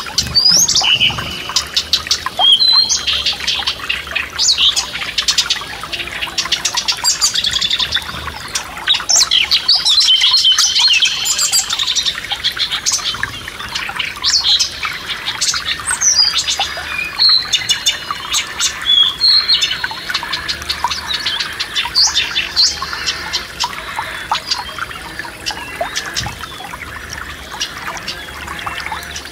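Songbirds singing over a forest stream's steady trickle: many quick chirps and short whistled glides. The birdsong is busiest through most of the stretch and thins out near the end, leaving mostly the running water.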